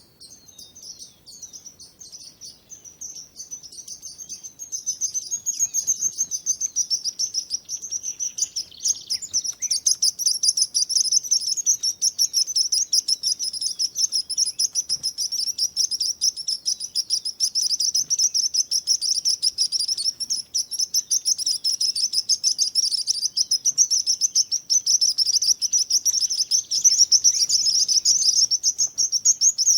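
A flock of small songbirds chirping and twittering, many high quick chirps overlapping into a continuous chorus. It grows louder about five seconds in.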